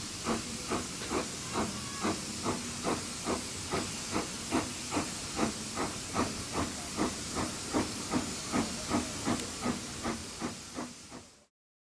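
Steam locomotive working, its exhaust beats coming evenly about two a second over a steady hiss of steam. The sound fades and stops shortly before the end.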